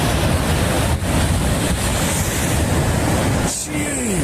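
Loud, continuous rushing roar of churning water, with wind buffeting the microphone. Near the end a person gives a short exclamation that falls in pitch.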